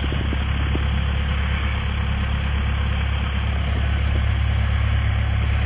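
Cessna Skyhawk's piston engine and propeller running steadily, a constant low drone with no change in power.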